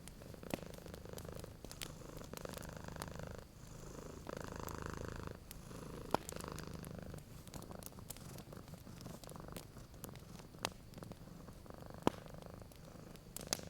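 Domestic cat purring steadily, the purr swelling and easing with each breath in and out, with a few sharp pops and crackles from a wood fire.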